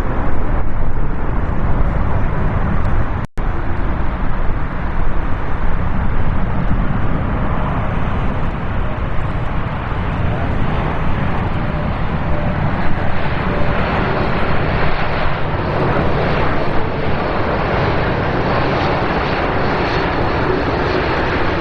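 Jet engine noise of an arriving Boeing 787 Dreamliner airliner: a steady rushing roar that grows louder and brighter from about halfway through. Near the start it cuts out for a split second.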